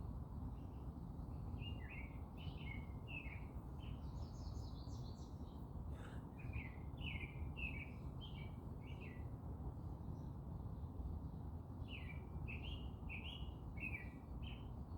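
Small birds chirping and singing in three bouts of quick, clipped notes, with a few higher, thinner notes between the first two bouts, over a steady low background rumble.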